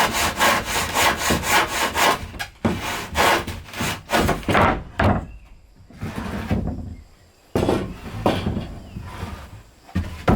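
Hand saw cutting through wood in quick back-and-forth strokes, in several runs with short pauses between them.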